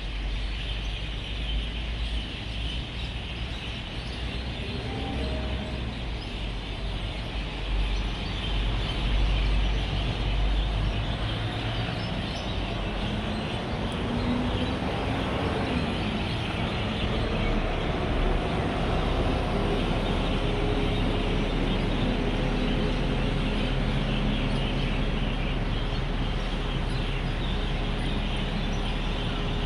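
A dense chorus of many birds chirping as they gather to roost, over a steady rumble of road traffic. Partway through, a vehicle passes closer, its engine note rising and then falling away.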